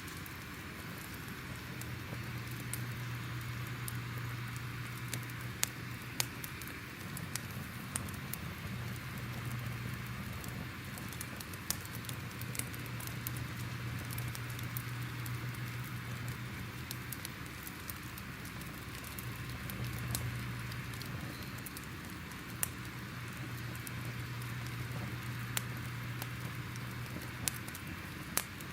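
Crackling fire ambience: a steady low rumble and hiss with irregular sharp pops and crackles scattered throughout.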